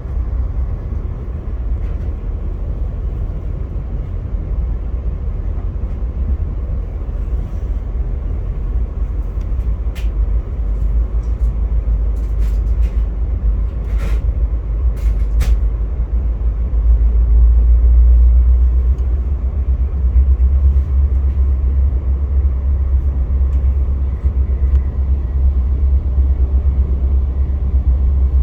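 Via Rail passenger train rolling along the track, heard from inside the coach: a steady low rumble that grows louder about two-thirds of the way through, with a few sharp clicks near the middle.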